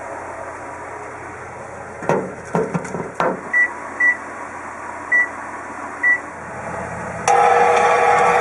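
Kenmore microwave oven being started: a few sharp clicks, then four short high keypad beeps, and about seven seconds in the oven starts running with a steady, louder hum.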